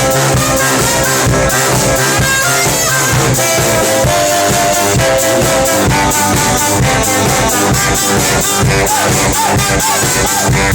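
Brass band playing live: horns hold and trade melody lines over a steady drum beat.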